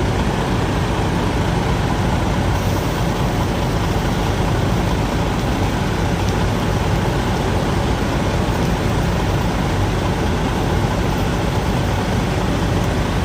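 Steady low drone of an idling diesel truck engine.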